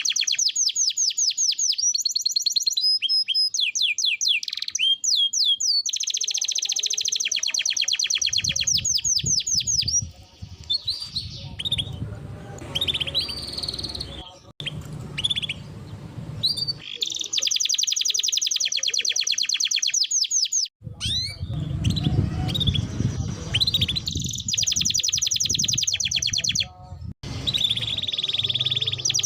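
Canary singing: long, fast trills of rapidly repeated high notes, broken by shorter whistled phrases. A low rumble sits underneath from about eight seconds in and again from about twenty-one seconds in.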